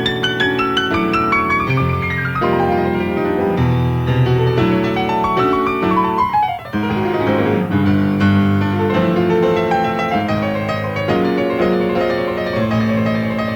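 Live jazz: piano playing busy lines and chords over electric bass, with a fast descending run about halfway through.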